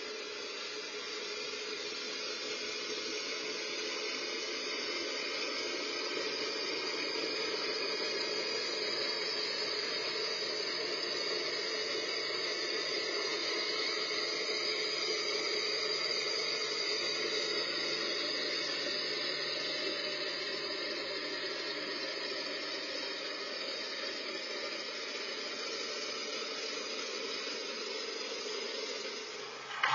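Kubota BX2230 compact tractor's three-cylinder diesel and its snowblower running steadily while blowing snow, heard as an even hiss that barely changes.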